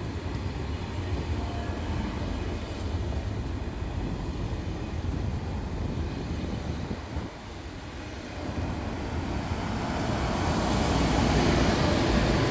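A train running with a steady low rumble, its noise swelling louder over the last few seconds as it draws closer.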